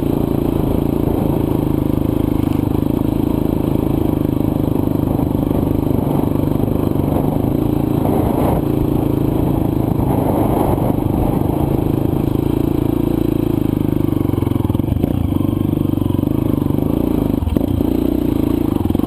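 Dirt bike's single-cylinder four-stroke engine running at a fairly steady speed while riding a loose, dry trail, with scraping and clattering from the terrain underneath.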